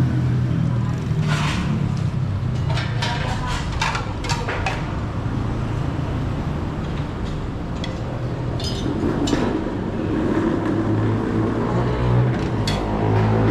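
Busy coffee-shop restaurant ambience: a steady hum of traffic and background chatter, with scattered sharp clinks and clatters.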